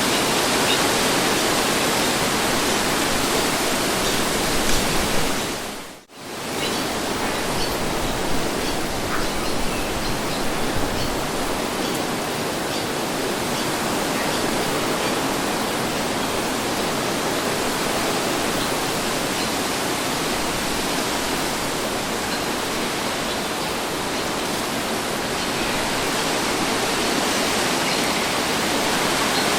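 Steady wind, an even rushing hiss across the whole range. About six seconds in it dips sharply almost to silence and swells back within a second.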